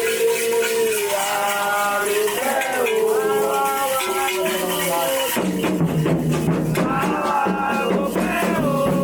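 Voices singing a Candomblé chant with a shaken rattle; about five seconds in the sound changes abruptly to a fuller, deeper mix of singing.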